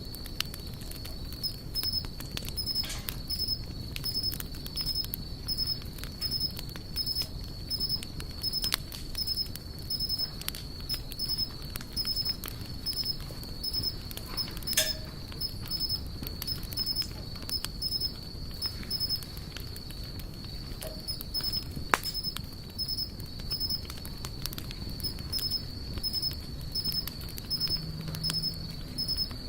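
Campfire burning: wood crackling with a steady run of small clicks over a low rustling, and two louder pops about halfway and about three-quarters of the way through. A steady high-pitched drone with a short chirp repeating roughly every second runs behind it.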